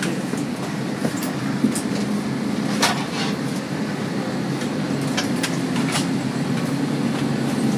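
Steady low hum of a parked Airbus A321's cabin air and ventilation system, with a few short clicks and knocks now and then.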